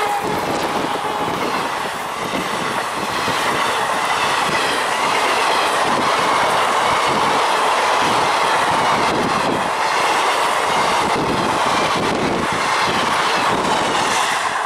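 Passenger coaches of an express train rushing past close by at speed: a steady loud roar with the wheels clattering over rail joints, easing near the end as the last coach goes by.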